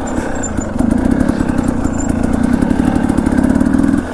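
Dirt bike engine running under throttle, louder from about a second in and easing off near the end.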